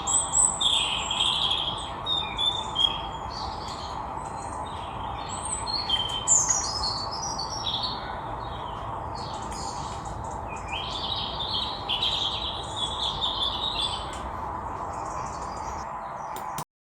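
Several songbirds singing and chirping in repeated short phrases over a steady background hiss. The sound cuts off suddenly near the end.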